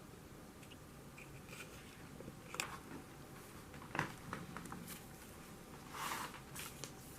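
Quiet room with a few soft clicks and knocks and a short scratchy rustle near the end, like light handling or scratching.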